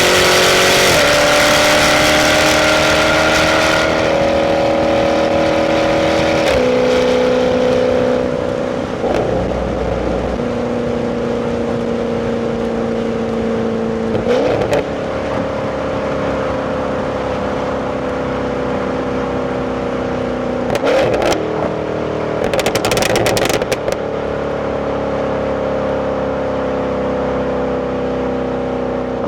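Jaguar F-Type 5.0 supercharged V8 with its stock exhaust, heard from inside the cabin while driving at modest speed. The engine note drops with upshifts about a second and about six seconds in, jumps up with a downshift around the middle, and otherwise drifts slowly between shifts. Several brief noisy bursts come in the second half.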